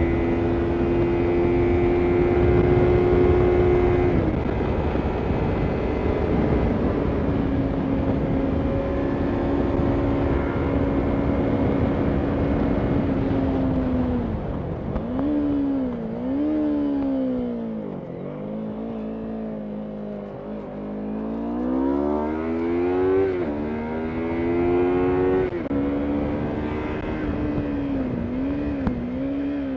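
Yamaha MT-03 motorcycle engine running at a steady pitch under wind rush, dropping a step about four seconds in. From about halfway it repeatedly falls and climbs again as the throttle is eased off and reopened.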